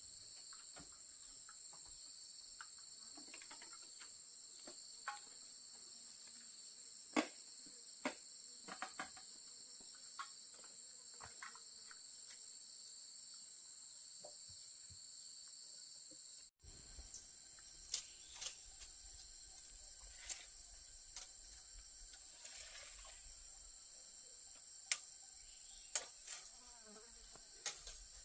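A steady high-pitched insect chorus, with scattered sharp clicks and knocks, a few of them loud. About two-thirds through, the sound cuts out for an instant and then carries on a little quieter.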